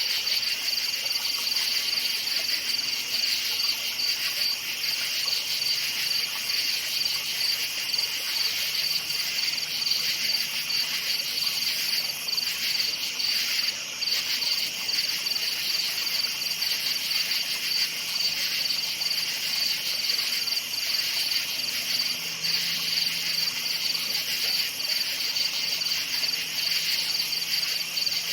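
A steady, dense chorus of crickets chirping, a rapid pulsing trill without a break.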